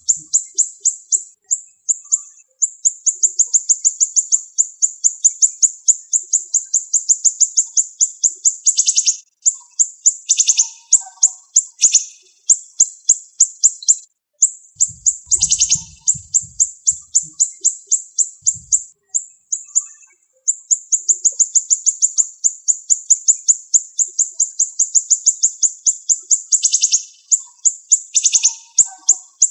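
A siri-siri songbird singing fast, tightly packed runs of high, sharp notes, the rapid 'tembakan' delivery prized in training recordings. The runs last several seconds and break off in brief pauses, with a few lower notes between them.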